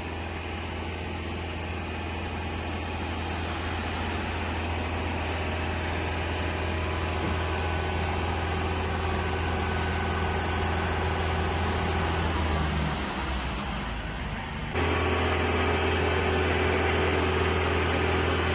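A large engine idling steadily as a low, even hum. About fifteen seconds in, the sound cuts abruptly to a similar, slightly louder engine drone.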